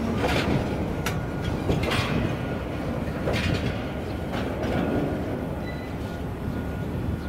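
A freight train's Taki 1000 oil tank wagons roll past at speed: a steady rumble of wheels on rail, with clattering knocks as wheelsets cross the rail joints. A faint thin high whine runs under it in the second half.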